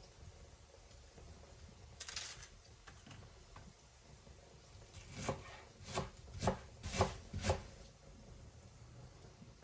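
Knife chopping on a cutting board: a short scrape, then five knocks about half a second apart.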